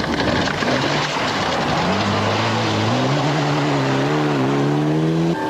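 Rally car on a wet gravel stage: gravel and spray noise at first, then from about two seconds in the engine note climbing steadily as the car accelerates out of the corner. It cuts off suddenly near the end.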